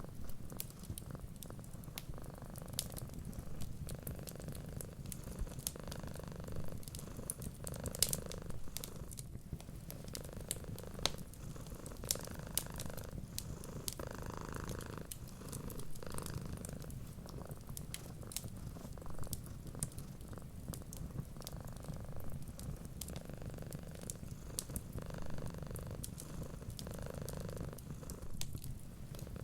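Domestic cat purring steadily, a low continuous rumble, with the small sharp pops and crackles of a wood fire scattered over it.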